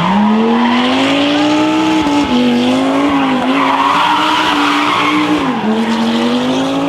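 Rally car engine driven hard, its pitch climbing, dipping about two seconds in and again near six seconds, with tyres skidding in the middle.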